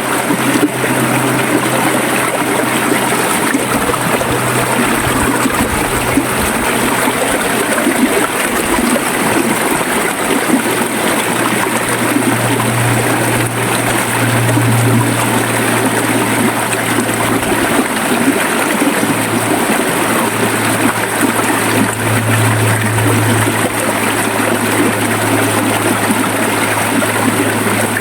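River water flowing steadily: a continuous, unbroken rushing with a low, shifting undertone.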